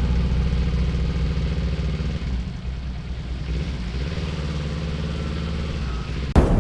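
Motorcycle engine running, easing off about two seconds in and then holding steady at low revs. A sharp click or knock comes near the end.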